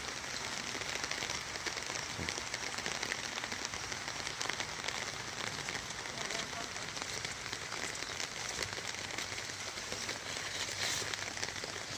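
Steady rain falling, an even patter of many small drops that keeps on without a break.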